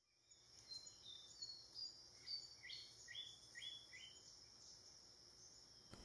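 Faint bird song: about a dozen short whistled notes over some three seconds, moving from higher to lower pitch, over a steady high-pitched insect drone.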